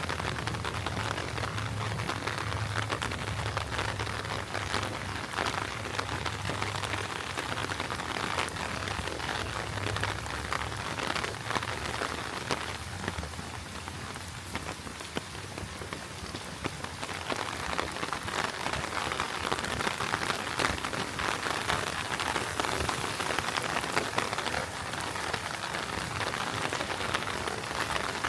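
Heavy rain falling steadily, a dense patter of many individual drops on the ground and surfaces. A low steady hum runs underneath for the first ten seconds or so, then fades.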